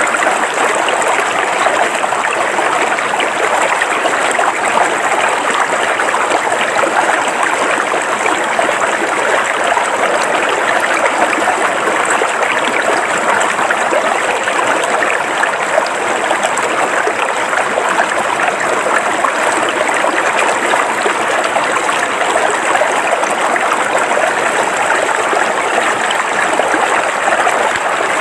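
River water flowing steadily over rocks in an even, unbroken rush, with a faint steady high tone above it.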